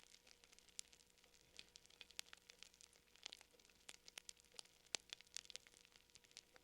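Fire crackling faintly: irregular sharp pops and snaps, several a second, over a low steady hiss.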